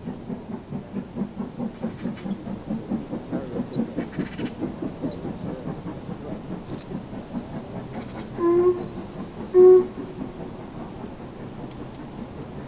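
A steam-hauled train passing with a rhythmic beat of about three to four a second that slowly fades away. Near the end come two short, loud hoots, a second apart.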